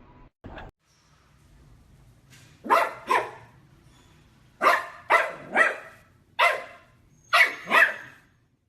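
A dog barking eight times in short groups of two and three, each bark a loud sharp call that drops in pitch.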